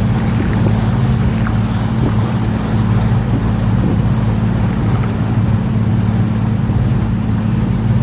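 Canal tour boat's motor running steadily under way, a constant low hum heard from on board, with a rushing haze of water and air noise over it.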